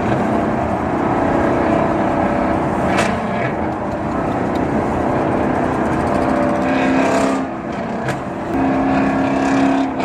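Ford Mustang engine running and revving, its pitch shifting up and down, with a couple of sharp cracks.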